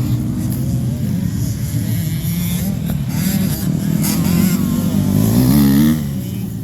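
Motocross dirt bike engines revving and changing pitch as they race. One engine climbs to a higher rev near the end, then falls away.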